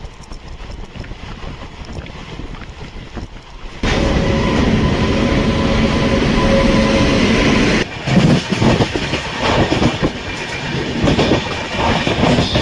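Train noise: a low rumble, then an abrupt jump to a much louder, dense running noise with steady tones through it for about four seconds, followed by irregular clattering.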